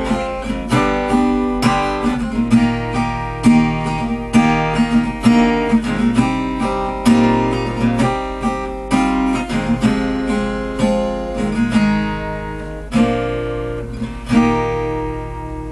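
Acoustic guitar strummed in a steady rhythm, playing the closing bars of a song without singing; the last chord rings out near the end.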